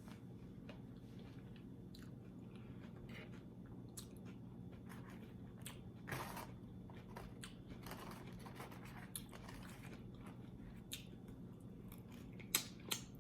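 A person chewing food close to the microphone, with scattered crunches and wet mouth clicks from eating tortilla chips and tacos. There is a louder crunch about halfway through and a few sharper clicks near the end, over a faint steady hum.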